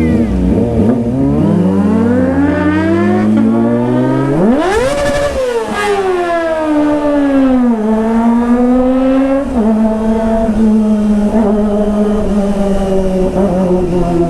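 Kawasaki ZX-25R's inline-four engine under a riding rev: the pitch climbs steadily to a high scream about five seconds in, falls back as the throttle closes, rises gently again, drops in one step at a gear change near ten seconds and then holds a steady pitch.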